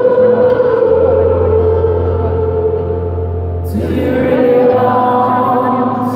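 Live acoustic band music: a held, slightly wavering sung note over sustained low accompaniment, with the harmony changing a little under four seconds in.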